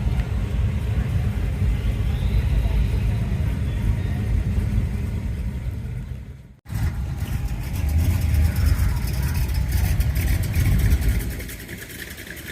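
Car engine running with a low rumble. The sound cuts off abruptly about six and a half seconds in, starts again, and falls quieter near the end.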